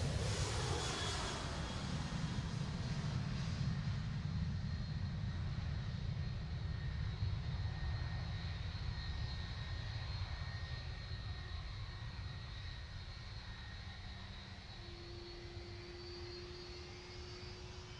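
Jet airliner at takeoff power passing close by, its pitch falling as it goes past, then a low rumble that slowly fades as it climbs away.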